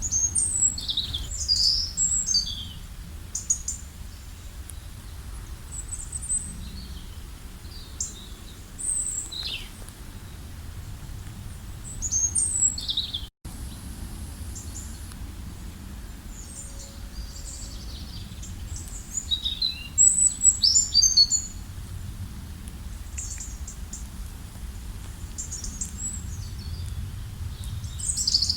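Songbirds singing in bursts of quick, high chirping phrases, the busiest flurries near the start, about 12 s in and about 20 s in, over a steady low background rumble. The sound cuts out for an instant about 13 s in.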